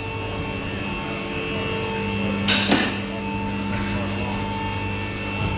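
Steady hum of running workshop machinery, with two sharp knocks close together about two and a half seconds in.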